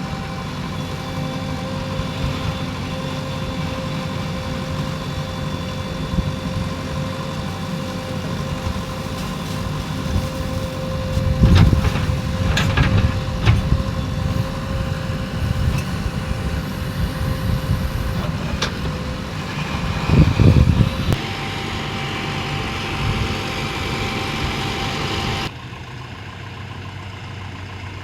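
Diesel engine of a JCB 3DX backhoe loader running steadily, rising louder twice with a few knocks, once about halfway through and again some eight seconds later. The level drops suddenly near the end.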